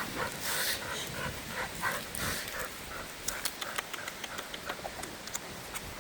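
A dog panting in quick, short breaths, with scattered sharp clicks and crackles, more of them in the second half.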